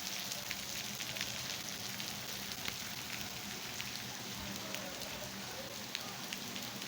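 Heavy rain falling, a steady hiss with many scattered drop ticks.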